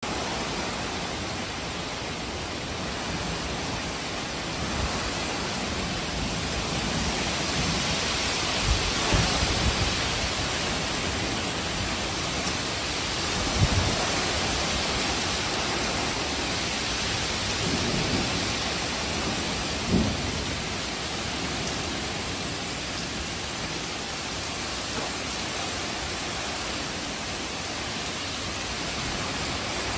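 Heavy thunderstorm rain pouring down steadily on a parked pickup truck and the ground around it, with a few brief low thumps about nine, fourteen and twenty seconds in.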